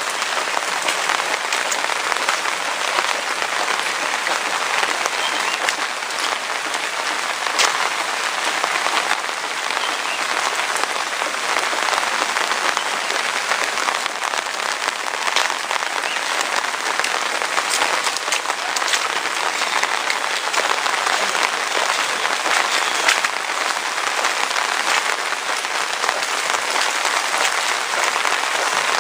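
Heavy rain falling steadily: a dense, even hiss of drops with sharp individual drop strikes scattered through it.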